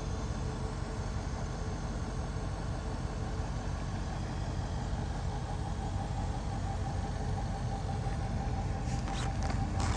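The Range Rover Sport P525's supercharged 5.0-litre V8 running steadily with a low rumble. A few light clicks come near the end.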